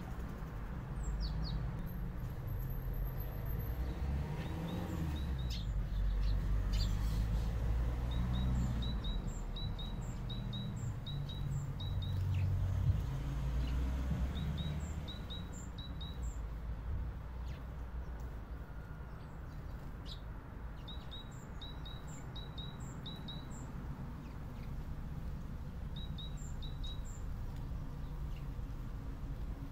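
Small songbirds calling: short high chirps repeated in quick runs of two to four, with thin higher notes between them, over a steady low rumble that swells for a while and then eases near the middle.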